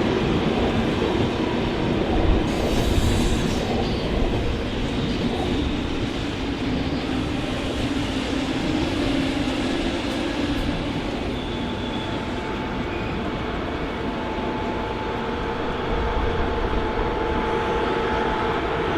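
A train running on the rails with a steady rumble of wheels on track, and a faint steady whine in the second half.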